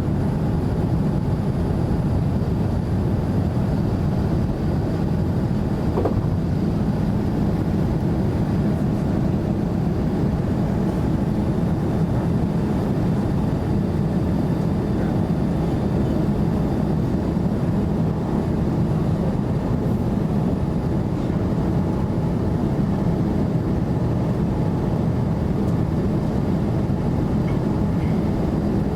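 Steady cabin noise of a Boeing 787-9 Dreamliner in flight: a low, even rumble of the engines and air rushing past the fuselage, without change in pitch or level.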